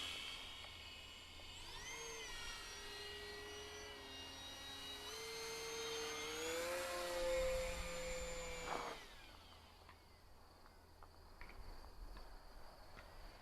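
Electric motor and propeller of an E-Flite RV-7 RC airplane whining in flight, the pitch gliding up and down. It fades out about nine seconds in.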